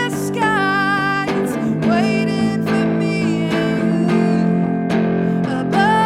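A woman singing a slow song to guitar accompaniment, holding long notes with vibrato over steady strummed chords.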